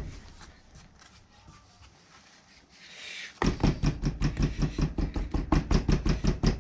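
A short quiet stretch with a brief hiss, then, about halfway in, a fast even run of thuds, about four or five a second: molding sand being rammed into a flask.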